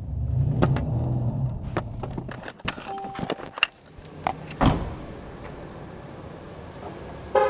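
Mercedes bi-turbo V8 idling with a steady low hum that cuts off about two and a half seconds in, followed by scattered clicks and a car door shutting with a thump near five seconds in.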